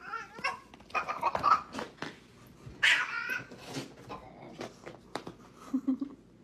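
A cat meowing a few times, with the loudest call about three seconds in, among scattered clicks and knocks.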